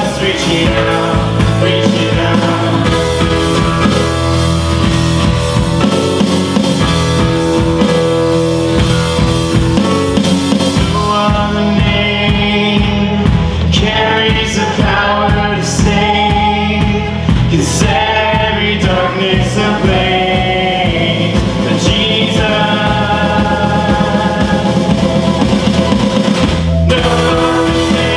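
Live worship band music with a steady beat.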